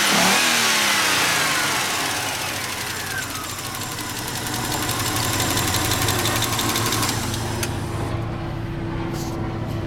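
Kia Carnival 2.5 petrol engine on test, its revs falling back from a blip over the first few seconds and then settling into a steady idle. It runs smoothly, in line with an engine tested good.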